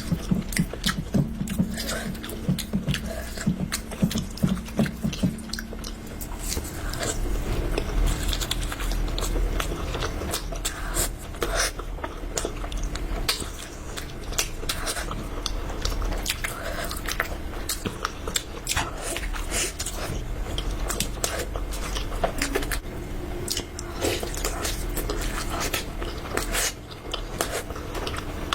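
Chewing and biting sounds of food being eaten up close: a steady run of irregular short clicks and smacks.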